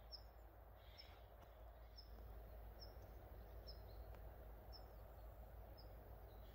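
Faint outdoor quiet in which a small bird repeats one short, high call about once a second.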